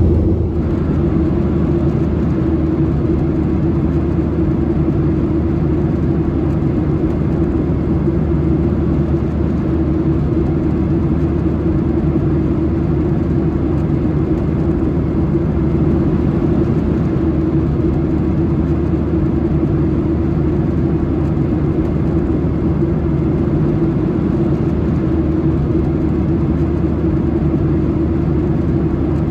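Steady drone inside the cabin of a Boeing 737-800 from its CFM56 jet engines and airflow, with a low hum and an unchanging mid-pitched tone.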